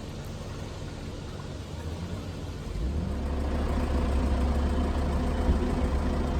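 Off-road vehicle's engine running, then growing louder and heavier about three seconds in as it is revved.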